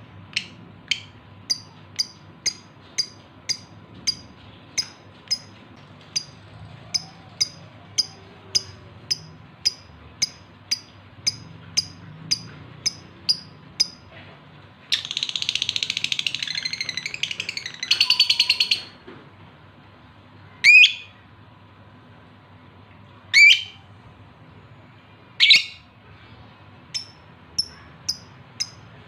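Male lovebird calling, in breeding condition and calling for a female: a steady run of short, sharp chirps about two a second, then a burst of rapid chattering midway, then three loud single screeching calls a couple of seconds apart, and softer chirps near the end.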